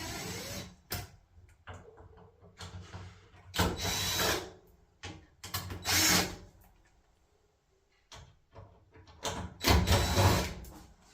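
Cordless power driver running in several short bursts as it backs out the screws holding a dryer cover panel.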